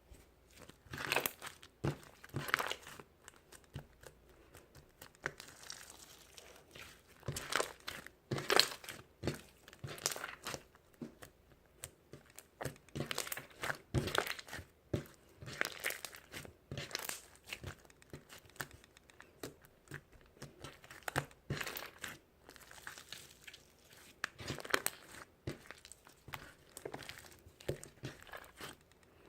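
Irregular crinkling and rustling, like something being crumpled or handled, in short uneven crackles with brief pauses between them.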